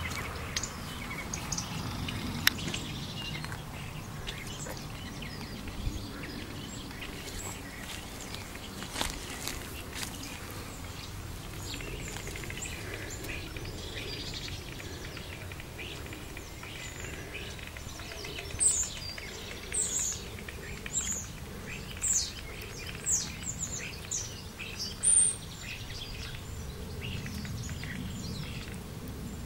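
A small bird calling: a run of about six short, high chirps, each falling quickly in pitch, over a steady outdoor background with a few faint clicks.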